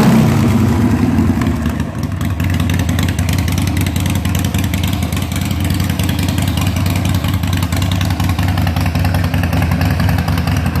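Harley-Davidson Sportster Forty-Eight's air-cooled 1200 cc Evolution V-twin, running through a Vance & Hines exhaust. It eases down from higher revs over the first two seconds, then idles steadily.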